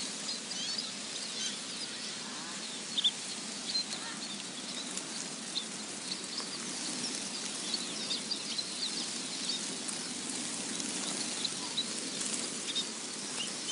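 A flock of small pipit birds cheeping, many short high chirps scattered throughout over a steady hiss. Some of the birds are alive but chilled after heavy rain.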